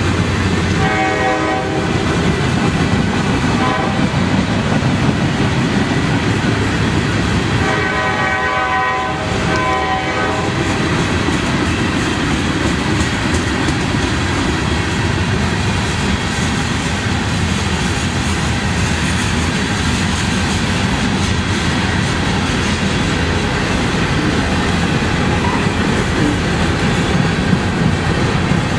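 Freight train of tank cars and hoppers rolling past, a steady rumble with wheel clatter over the rail joints. The locomotive horn sounds as a chord at the start and again about eight seconds in, in two short blasts.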